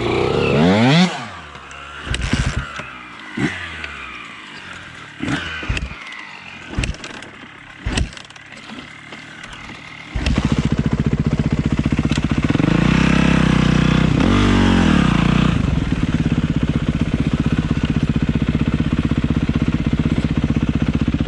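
A dirt bike engine revs and winds down in the first second or so, followed by several scattered knocks and clatters. About ten seconds in, a dirt bike engine suddenly comes in and runs steadily, with a brief rev up and back down a few seconds later.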